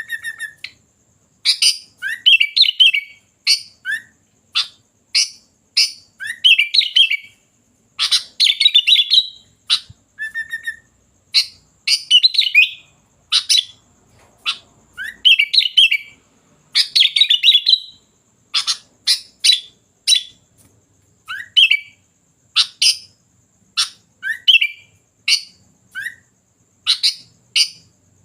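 Sooty-headed bulbul (kutilang) singing vigorously: a steady run of short sharp chirps and brief warbled phrases with rising notes, one to two a second.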